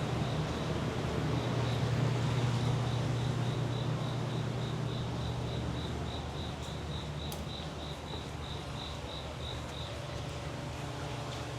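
Insect chirping in an even pulse, about three chirps a second, stopping about ten seconds in, over a steady low hum that fades after the first few seconds.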